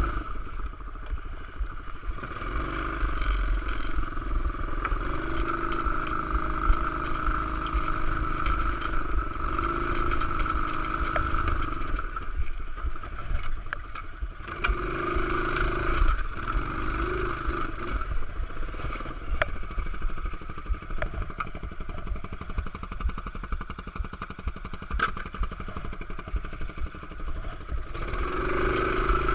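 Pit bike engine running unevenly, its note rising and falling and briefly dipping a couple of times; the rider calls it stuttering and can't say why, since it isn't out of gas.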